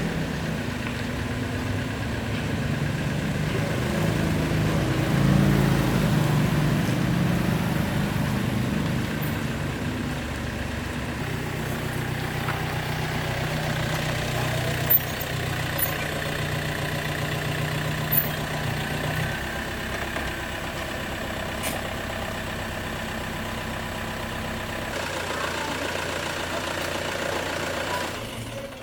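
A motor or engine running steadily near idle, its pitch rising for a few seconds and dropping back a few times, with a couple of short sharp clicks in the middle.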